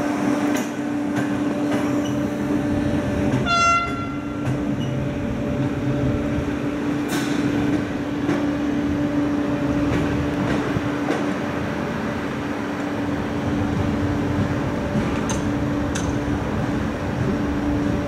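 Steady hum of a passenger train standing at the platform, with a short horn toot about three and a half seconds in and a few sharp clanks later.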